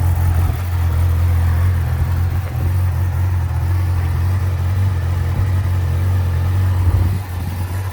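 2019 Yamaha YZF-R6's 600 cc inline-four engine idling steadily through its stock exhaust.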